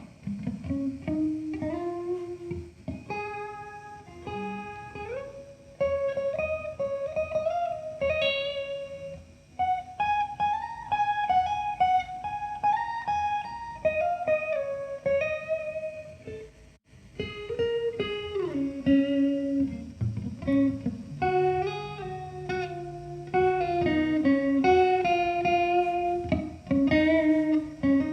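Electric guitar playing a melodic instrumental lead line over a bass, with sustained bending notes and a brief pause about two-thirds of the way through.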